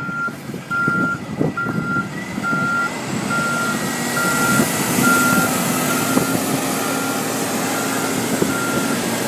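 Truck's reversing alarm beeping at a steady pitch, about three beeps every two seconds, growing fainter near the end, over the truck's engine running.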